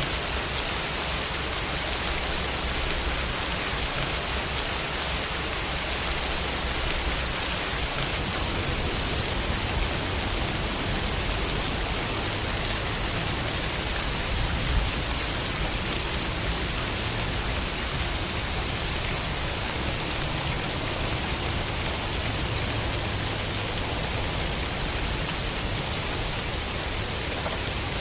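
Steady, heavy rain falling, an even hiss of drops with a low rumble underneath and a slight swell in loudness about halfway through.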